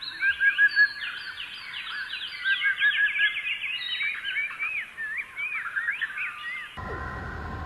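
Many birds calling at once: overlapping chirps and whistles, with quick runs of short repeated notes. About seven seconds in they cut off abruptly and guitar music starts.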